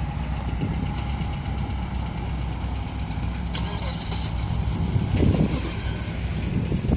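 A car engine idling with a steady low rumble, with a brief voice about five seconds in.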